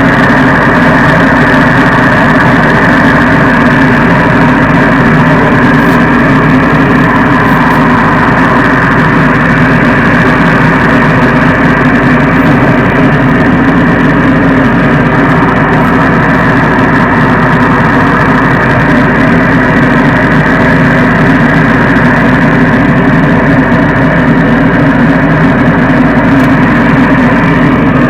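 Sound truck's loudspeaker system playing loud during tuning: a steady, dense rush with no beat, strongest in the bass and middle range, with no change throughout.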